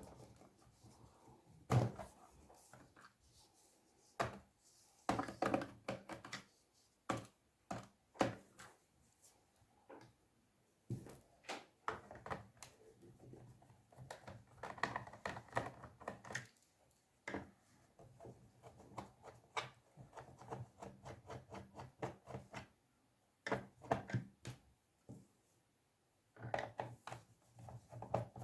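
Irregular light clicks and knocks of a screwdriver and hands on a laptop's plastic underside as its screws are undone and set down.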